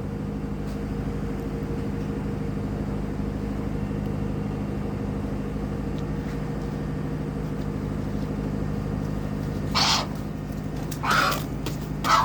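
Steady engine hum, with a bird giving three short, harsh calls near the end.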